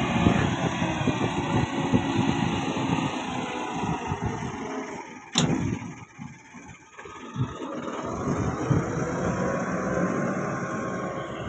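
Massey Ferguson 385 tractor's diesel engine running, with one sharp click about halfway. The engine dips briefly after the click, then runs on steadily with a slowly rising pitch.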